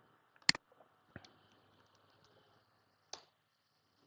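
Computer mouse clicking: one sharp click about half a second in, then fainter clicks about a second later and again near the end, over faint room tone.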